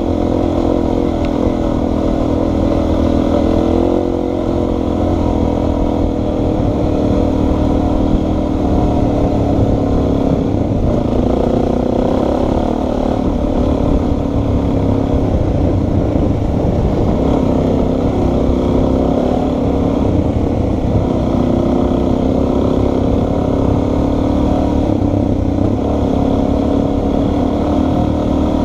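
Suzuki DRZ400's single-cylinder four-stroke engine running under way on a dirt trail, its pitch rising and falling a little with the throttle, under heavy wind noise from riding.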